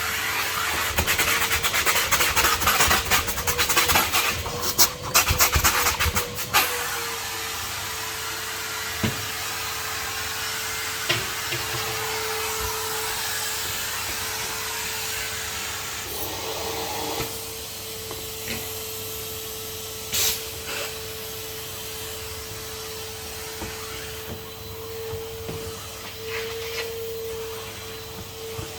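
Henry HVR200 620 W vacuum cleaner running, its motor giving a steady whine. For the first six seconds or so the nozzle scrapes and rattles over a surface, then the sound settles with a few separate knocks.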